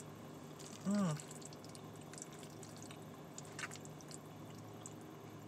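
A woman's closed-mouth "mmm" of enjoyment about a second in, then soft wet chewing with small mouth clicks and smacks, one sharper click a little past halfway, over a steady low hum.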